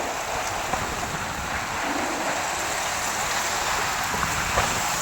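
Heavy cyclone rain falling steadily with running floodwater, a continuous even hiss.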